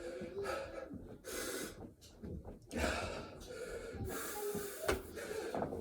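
A man breathing hard in loud, gasping breaths about one a second, winded mid-way through a set of burpees.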